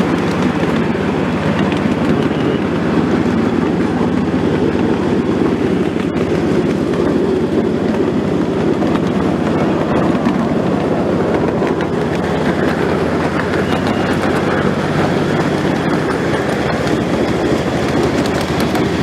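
Train running steadily, heard from on board: a continuous low rumble of wheels on track.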